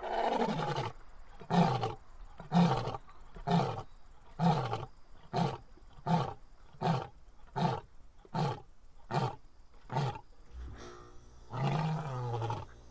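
A deep roaring call repeated about a dozen times, roughly once every 0.8 seconds, each short call dropping in pitch, followed by one longer roar near the end.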